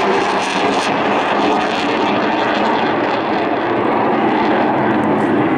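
Steady, loud jet noise from a Eurofighter Typhoon FGR4's twin Eurojet EJ200 turbofans as the fighter flies a display manoeuvre.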